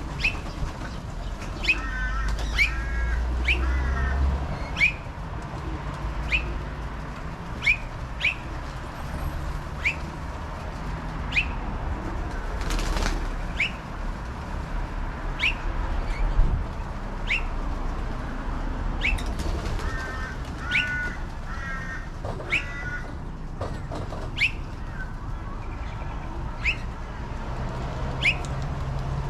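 Birds at a pigeon feeding spot: a sharp, high call repeated about every second and a half, two short spells of quick chirping, and wing flapping, over a low steady rumble.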